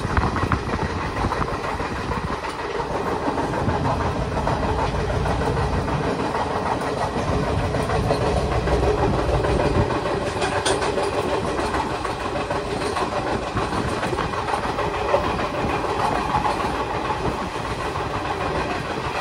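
Passenger train running at speed, heard from an open coach doorway: steady wheel-and-track noise with a few sharper clicks from the rails.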